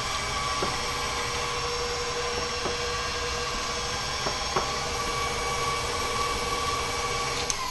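Stand mixer motor running steadily at medium-high speed while creaming butter and sugar: a steady whine with a few light ticks. Right at the end the mixer is switched off and the whine starts to fall in pitch.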